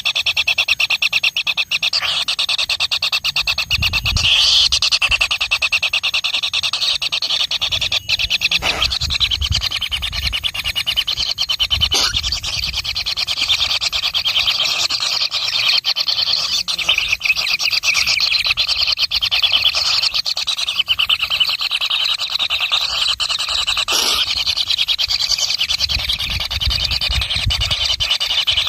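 A chorus of baby birds begging for food: a continuous stream of rapid, high-pitched, buzzy chirps.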